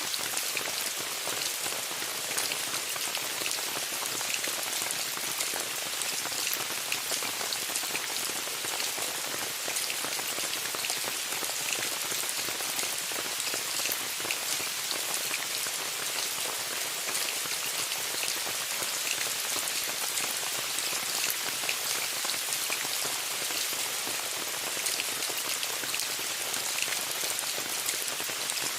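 Steady rain pattering on a tent: a dense, even hiss of countless small drop ticks, unchanging throughout.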